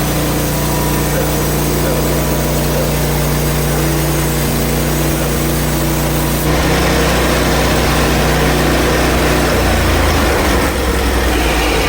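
Portable band sawmill running under load as its blade cuts a slab from a maple log: a steady engine note with sawing noise over it. The engine note changes about six and a half seconds in and again near the end.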